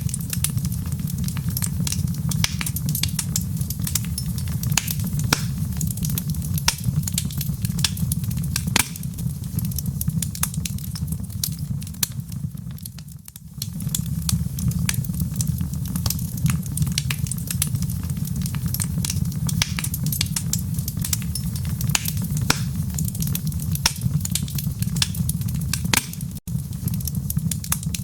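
Wood fire in a fireplace crackling, with frequent sharp pops and snaps over a steady low rumble. The sound briefly dips about halfway through.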